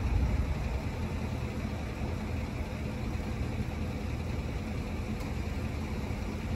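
A vehicle engine idling steadily: an even low hum over faint outdoor background noise.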